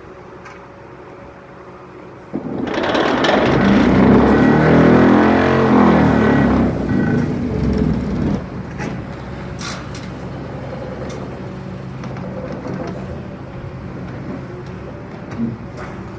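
NoahTech NPD100S hydraulic vibro pile hammer on an excavator, vibrating hard for about six seconds. It starts suddenly a couple of seconds in and stops abruptly, over the excavator's steady engine. Afterwards the engine runs on with a few sharp knocks.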